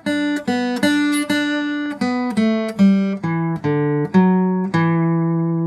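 Acoustic guitar playing the closing phrase of a solo as single plucked notes. About a dozen notes step mostly downward, and the last low note is held and left ringing.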